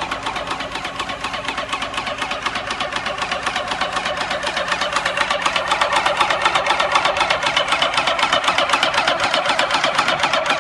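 Yokiji YKJ720 electric piston airless paint sprayer running under load, its pump clattering in a rapid, even rhythm of strokes while paint is sprayed at high pressure.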